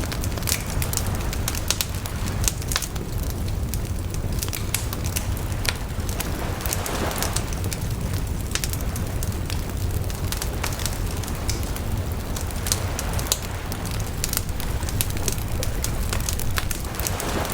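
Bonfire crackling, with irregular sharp pops and snaps over a steady low rumble of the burning fire. A brief hissing surge comes about seven seconds in and again near the end.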